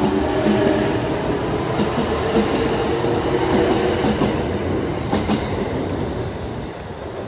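Kintetsu electric train running past along the platform, its wheels clicking over the rail joints, often in pairs, over a steady hum and rumble. The sound fades away over the last couple of seconds as the train moves off.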